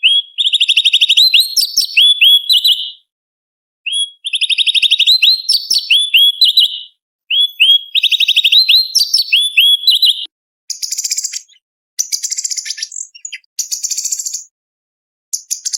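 Orange-bellied leafbird (cucak cungkok) singing: three long, rapid trilled phrases of quick upswept notes, then from about ten seconds in three harsher, higher-pitched chattering bursts.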